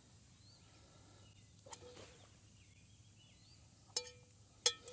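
Metal cookware clinking: a sharp clink about a second and a half in and three more near the end, each ringing briefly. Faint bird chirps sound now and then in between.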